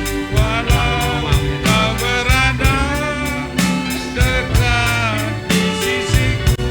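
A sinden (Javanese female singer) singing a wavering, ornamented vocal line over a gamelan-style ensemble, with steady, regularly repeating drum strokes beneath.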